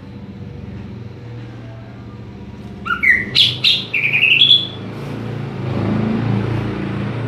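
Cucak ijo (green leafbird) singing a loud burst of quick, sliding whistled notes about three seconds in, lasting about two seconds. A steady low rumble runs underneath and grows louder near the end.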